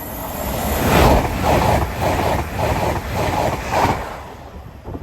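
TransPennine Express passenger train passing the level crossing at speed. It builds quickly, then beats rhythmically about twice a second as the wheelsets go by, and fades away after about four seconds.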